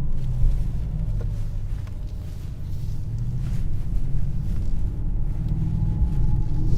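Mercedes-AMG GLS 63's twin-turbo V8 running at a steady low rumble while driving, easing off a little midway and building again toward the end.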